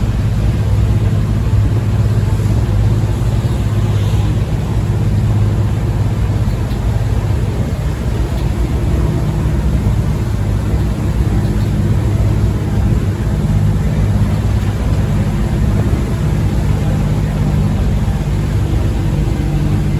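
Tractor engine running steadily under load while pulling up a hill, a low droning hum whose pitch steps up a little about halfway through.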